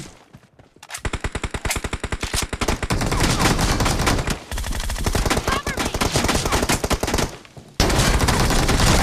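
Automatic gunfire in a first-person shooter video game: rapid shots begin about a second in and build into long, dense bursts, with a brief pause near the end before the firing resumes.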